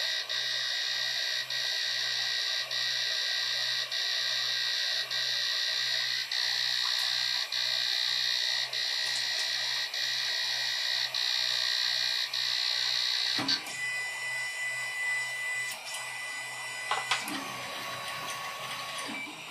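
Malyan M150 3D printer running a print: a steady motor and fan whine with a pulsing hum, dipping briefly about every second. About two-thirds through, after a click, it turns quieter with a thin steady tone.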